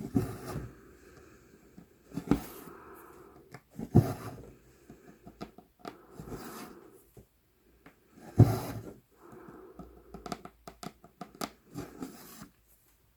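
Cross-stitching by hand: a needle piercing 11-count Aida cloth and embroidery floss drawn through it, giving irregular soft rasps and a few louder pops.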